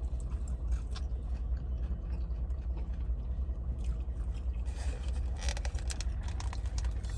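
Chewing food, with scattered mouth clicks that bunch together about five to six seconds in, over a steady low hum.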